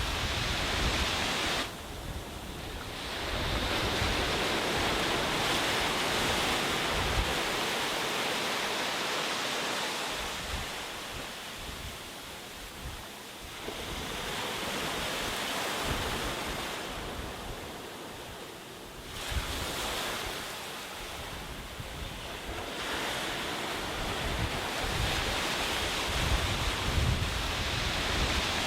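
Sea waves breaking and washing on a beach, the surf swelling and ebbing several times, with wind buffeting the microphone near the start and end.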